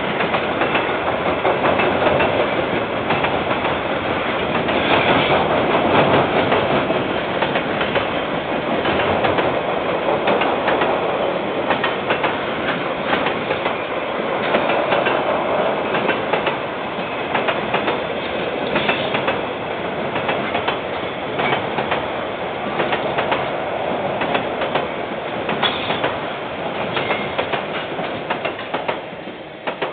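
KiwiRail train wagons rolling past, their wheels clattering and clicking over the rail joints, fading just before the end. Heard through a security camera's microphone, which dulls the highs.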